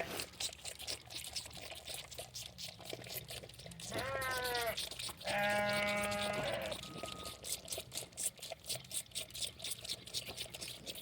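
St Croix hair sheep bleating twice, a short call about four seconds in and a longer, steadier one just after. Under the calls is a run of quick soft clicking from lambs sucking milk from bottles.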